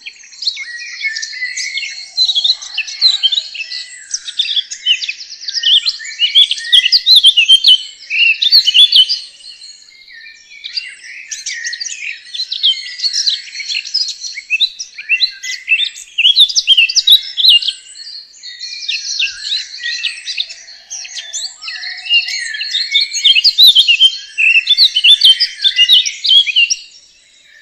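Birdsong: rapid, high twittering and chirping in long phrases of several seconds each, with short breaks between them.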